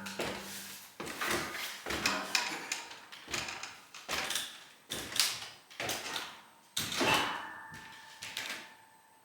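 Irregular series of knocks and clatters, about one or two a second, each dying away quickly. The last strong knock leaves a steady ringing tone.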